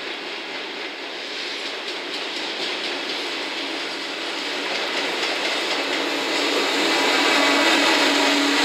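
JR Freight EF210 electric locomotive hauling container wagons, approaching and passing close by. The running noise of the train on the rails grows steadily louder, and a steady low hum joins in near the end as the locomotive draws level.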